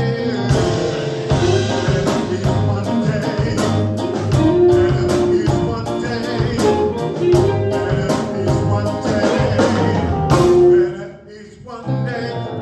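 Live gospel praise band playing with singing: bass, drums with regular cymbal hits and sustained sung or keyboard notes, dropping away briefly near the end.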